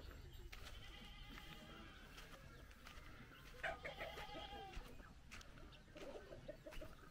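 Faint chickens clucking, with short calls about a second in and again near four seconds in.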